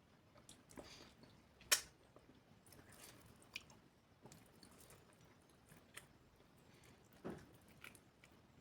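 Close-miked chewing and biting of food: faint, scattered wet mouth clicks, with a sharp bite about two seconds in and another near the end.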